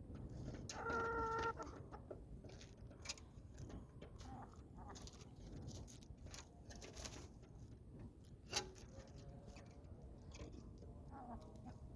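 Domestic chickens clucking, with one louder drawn-out call about a second in, and scattered sharp clicks and taps throughout.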